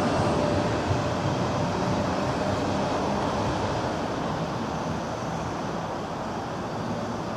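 Sydney Trains double-deck electric train pulling away from the platform, its running rumble slowly fading as it goes down the line.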